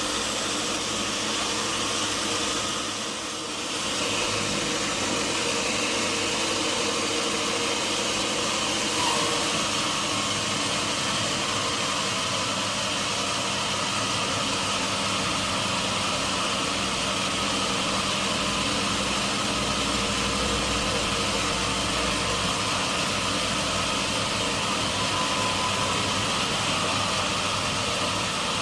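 Sawmill machinery running steadily with an engine-like drone. The level dips briefly about three seconds in.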